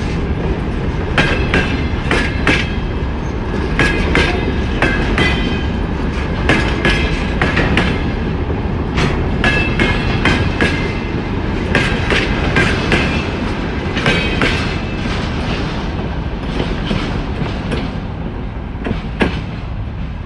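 Loaded freight train wagons rolling past at speed: a continuous low rumble with repeated clickety-clack of wheels over rail joints and brief high-pitched wheel squeals. It eases off slightly near the end.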